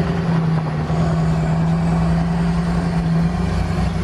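A vehicle engine running steadily, a constant low hum that holds one pitch.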